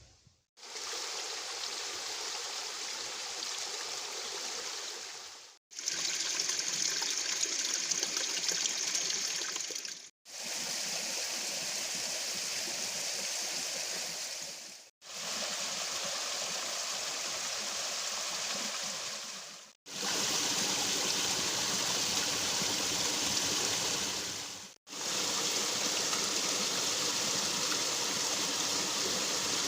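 Steady rushing, hissing noise like running water, in stretches of about five seconds, each cut off abruptly by a split-second silence.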